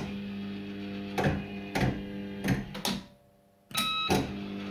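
Bell Fruit Firecracker fruit machine's electronic sound: a steady buzzing tone with several sharp clicks. It cuts out briefly about three seconds in, then starts again with a short beep.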